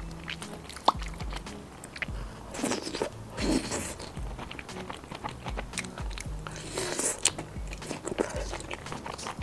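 Close-miked biting and chewing of crisp deep-fried long beans, with two spells of loud crunching, about three seconds in and again about seven seconds in, and small wet chewing clicks between. Faint background music with a low steady beat runs underneath.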